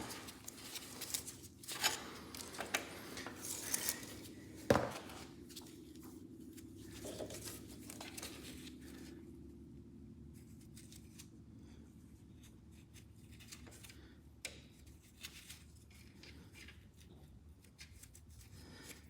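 Small metal parts being handled and fitted by hand on a tractor's brake linkage: scattered light clicks and scrapes, with one sharper knock about five seconds in, then quieter fiddling with only an occasional click.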